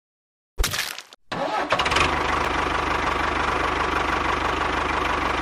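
A thud, then a small engine starts and runs steadily with a fast, even pulse.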